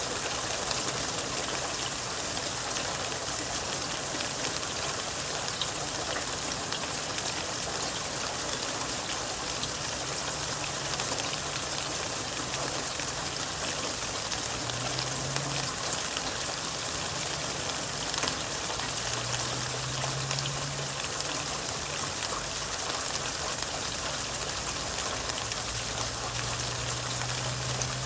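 Steady rain falling, with the fine patter of individual drops striking surfaces.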